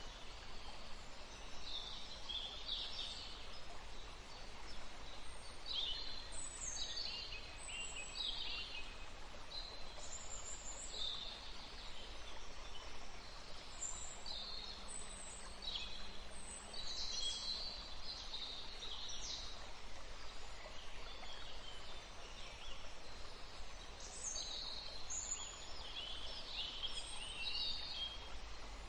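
Forest birds singing and calling, a steady run of short chirps and trills, over the faint rush of a small river.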